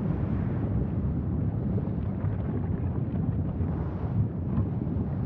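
Wind buffeting the microphone: a steady low rumbling noise that swells and eases a little.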